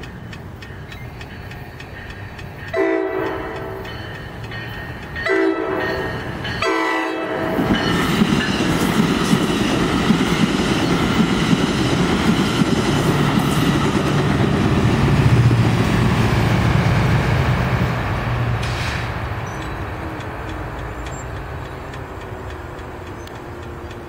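NJ Transit commuter train at a grade crossing: the horn sounds three blasts, then the multilevel cars rumble and clack over the crossing. A low diesel drone rises in the middle of the pass as the pushing locomotive goes by, and the noise fades away near the end. A crossing bell ticks faintly under the opening.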